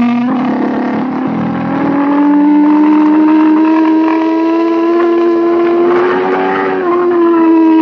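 Racing motorcycle engine running hard at high revs under the rider. It dips in loudness just after the start, then climbs slowly and steadily in pitch through the corner, with a small drop in pitch about seven seconds in.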